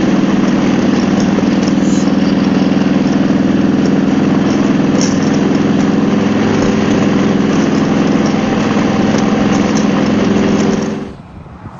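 Harley-Davidson Road Glide's V-twin engine running steadily at highway cruising speed, heard with heavy wind and road noise. The sound drops away sharply near the end.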